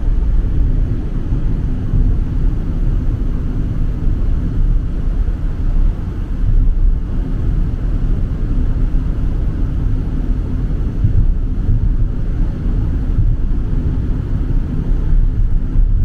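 Strong wind buffeting the microphone ahead of a typhoon: a continuous low rumble that swells and eases.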